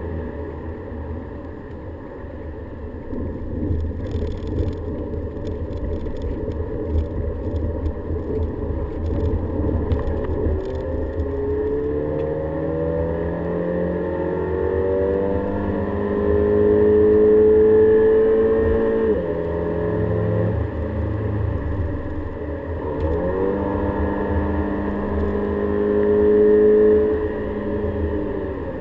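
A Volkswagen Golf GTI at speed, heard from inside the cabin, over a steady low road and tyre rumble. From about a third of the way in, the engine note climbs under acceleration and drops sharply at an upshift about two-thirds through. It then climbs again and drops once more near the end.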